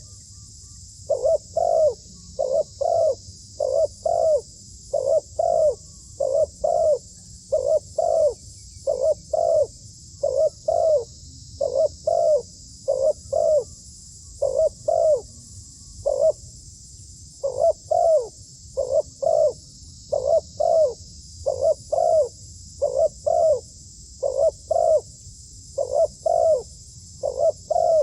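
Zebra dove cooing: short notes in quick pairs and triplets, repeated over and over with brief gaps, over a steady high hiss.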